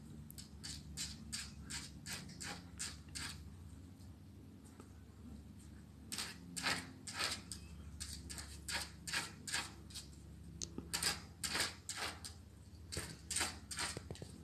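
Quick scratchy taps, about three or four a second, from a puppy's claws and paws on a hard floor as it plays. The taps come in two runs, breaking off for a couple of seconds in the middle.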